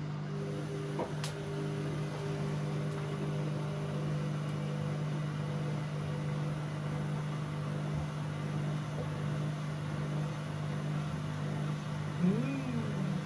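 Bauknecht WA Aquaton 1400 washing machine running mid-cycle on its 60 °C cottons programme with a steady low hum. A brief rising-then-falling sound comes near the end.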